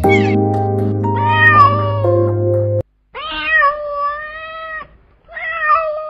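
Background music for nearly three seconds, then a domestic cat meowing: one long meow of almost two seconds, then a shorter one near the end.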